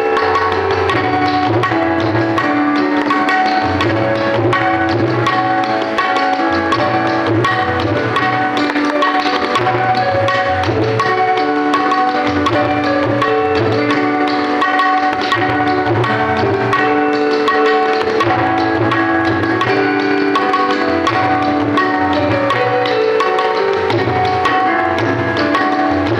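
Tabla played in a sound check: rhythmic deep bass strokes and sharp treble strokes. Underneath runs a melody of held notes stepping up and down from another instrument.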